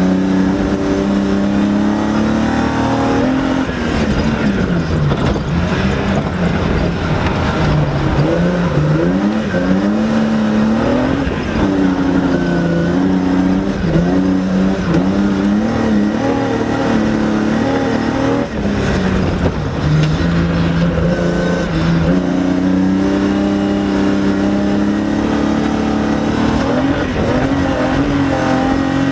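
BMW E30 rally car engine heard from inside the cabin, revving hard and dropping again and again as it is driven flat out, the pitch swooping up and down with lifts and gear changes.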